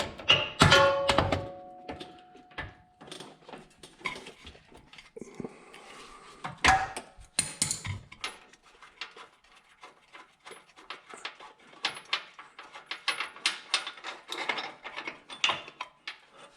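Hand tools working on the HMMWV's motor-mount bolts: a metal clank that rings briefly about half a second in, then many small irregular metallic clicks and taps.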